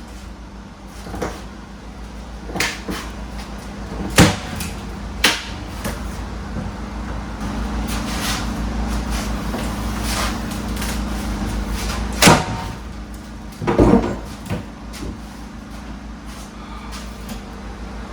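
Wooden bus floor boards being pried up with two steel pry bars: a tough board creaking and groaning free, with a handful of sharp knocks and cracks, the loudest a little past four seconds and about twelve seconds in.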